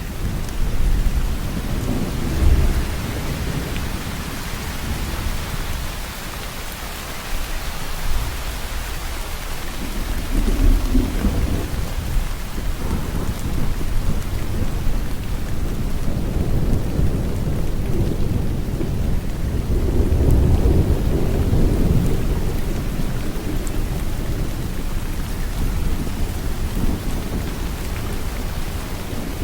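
Steady heavy rainfall with rolling thunder: low rumbles swell and fade under the hiss of the rain, the longest about two-thirds of the way through.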